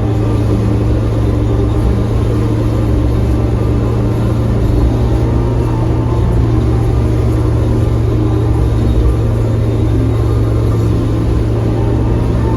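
Toyota Corolla AE86 driving at a steady speed: a constant low engine drone with road rumble, holding one pitch throughout.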